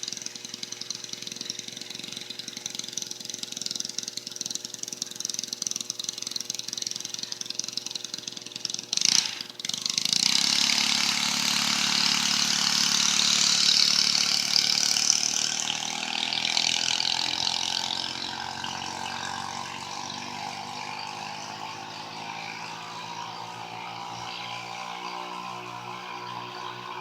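Small four-stroke Honda GX31 engine of a mini bike running steadily, then a sharp knock about nine seconds in. The bike then passes at speed: the engine grows loudest around fourteen seconds in and slowly fades as it moves away.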